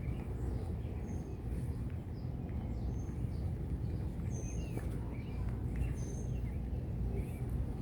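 Steady low outdoor rumble with small birds chirping: short, high calls about every one to two seconds.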